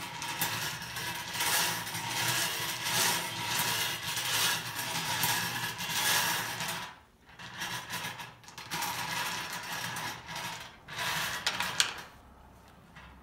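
Numbered balls clattering as a bingo-style ball cage is spun. The rattling stops briefly about seven seconds in, then the cage spins again until near the end, when a ball is drawn.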